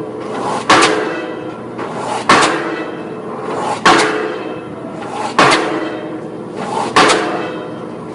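Offshore pile-driving hammer striking a pile, five heavy blows about a second and a half apart, each followed by a metallic ringing decay.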